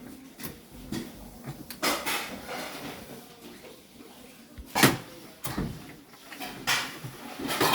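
Intermittent knocks and clicks of tools and parts being handled, the loudest about five seconds in.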